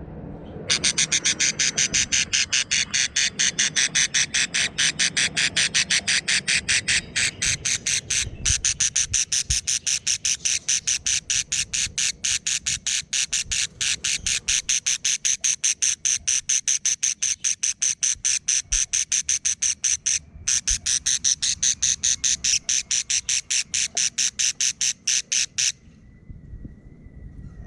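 Budgerigar chick calling in a fast, even series of short rasping pulses, about five a second, broken once briefly and stopping near the end.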